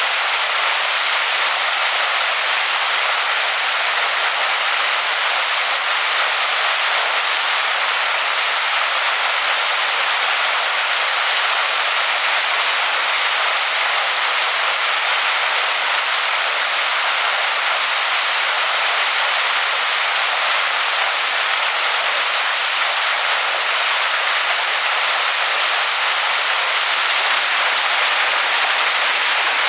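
Waterfall pouring onto rocks: a steady, loud, hissing rush of water, even throughout.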